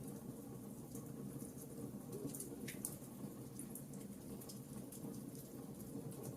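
Wood fire burning in a fireplace: a low steady rumble of flames with scattered small crackles from the burning logs, and a couple of sharper pops about halfway through.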